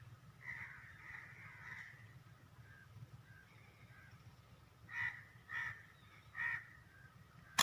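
Crows cawing: a hoarse run of calls in the first two seconds, then three louder caws spaced a little under a second apart. A sharp crack, the loudest sound, comes right at the end.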